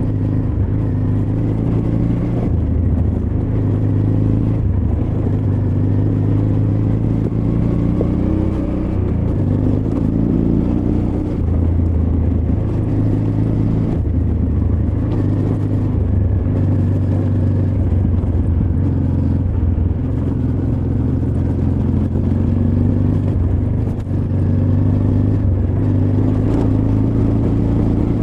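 Honda Transalp XL600V's 583 cc V-twin engine pulling the bike over a rocky off-road trail, its pitch rising and dropping every second or two as the throttle opens and closes.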